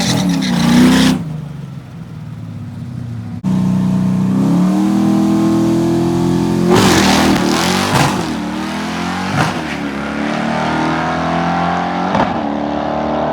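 Fox-body Mustang's 5.0 V8 with a short dumped exhaust, running under throttle. The engine note falls, drops back after about a second, then comes back loud, climbs in pitch and holds steady. A few sharp knocks stand out over it in the second half.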